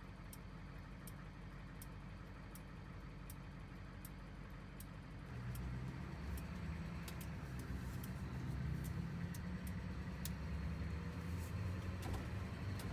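A camper van driving, heard from inside the cabin: a steady low engine and road rumble that grows louder about five seconds in, with light regular ticks about every three-quarters of a second.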